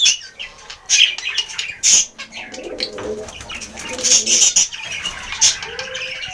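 Budgerigars chirping and warbling in quick, irregular bursts: the chatter of a male courting a female.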